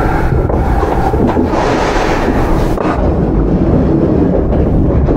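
Interior running sound of a Kintetsu 8810 series field-chopper electric train: a steady low rumble of the car on the rails with a hiss, and a few faint clicks near the start.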